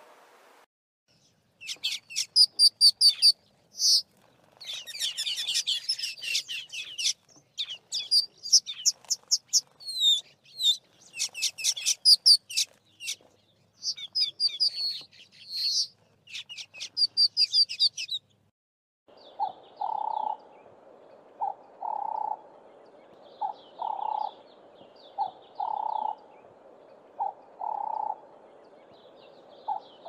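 Red-billed Quelea song: a long run of rapid, high, scratchy chirps and trills in bursts. About 19 seconds in it gives way to a Ring-necked Dove (Cape Turtle Dove) cooing, a low phrase repeated about every two seconds.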